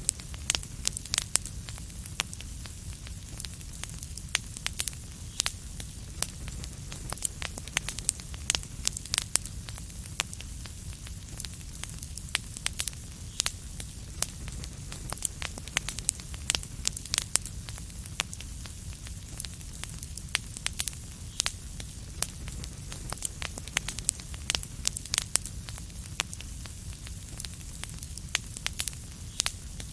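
Wood fire crackling: many sharp, irregular pops and snaps over a steady low rumble and soft hiss of burning.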